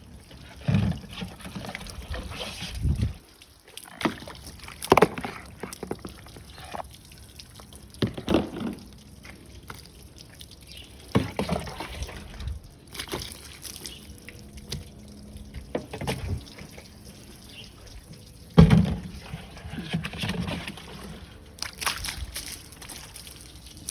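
Water splashing and sloshing in irregular bursts as a car is washed and rinsed by hand, the loudest splash near the end.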